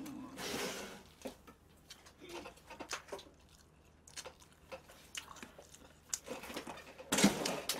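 A person chewing sauced fried chicken close to a microphone, with many small wet mouth clicks. A louder burst of noise comes near the end.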